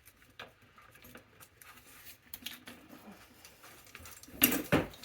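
Hand tools and metal bicycle parts being handled: small scattered clicks and clinks, then a louder metallic clatter about four and a half seconds in.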